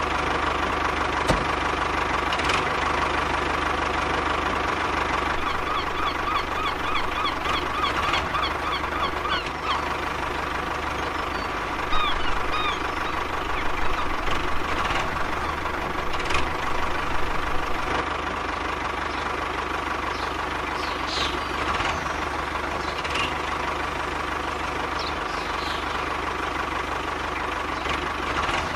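Small motor running steadily with a constant whine, with scattered clicks and short chirps over it.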